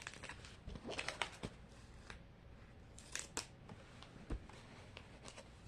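Faint crinkling and tearing of a Mini Brands plastic package being opened by hand, with scattered clicks and a soft thump about four seconds in.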